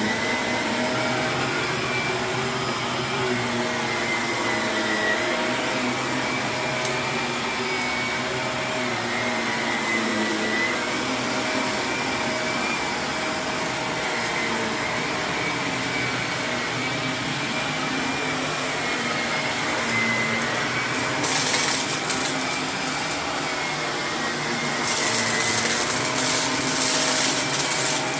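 Vacuum cleaner running steadily over carpet with a wavering high whine, breaking into loud crackling twice in the later part as hidden grit and debris rattle up into it.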